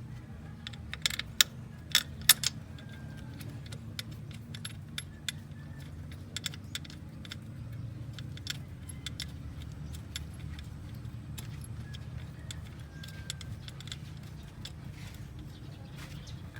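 Sharp metallic clinks and taps, a quick cluster in the first few seconds and then scattered ones, over a steady low hum.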